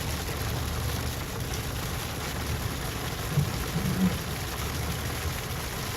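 A storm of rain mixed with ice pellets falling steadily, making an even hiss, with a low rumble underneath.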